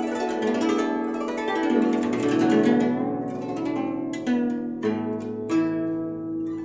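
Chinese plucked zither playing solo: rapid rippling runs of plucked notes that ring on, with deeper bass notes joining about two seconds in and again near five seconds.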